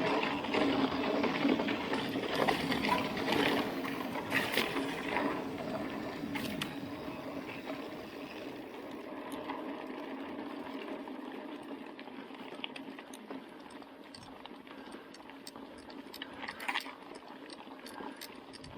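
Mountain bike rolling over a dusty dirt road: tyre noise with rattling and small clicks from the bike. It is loudest over the first few seconds, then eases off as the bike slows.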